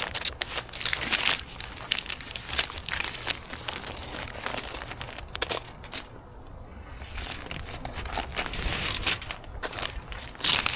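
Irregular crinkling and crackling handling noise, a dense run of small clicks that eases off briefly around the middle.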